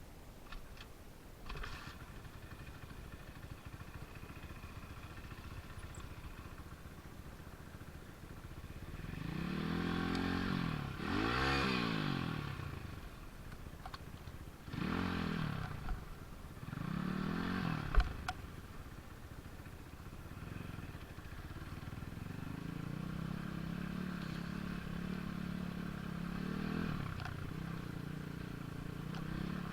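An engine revving up and dropping back several times, then running at a steady speed, with a single sharp knock partway through.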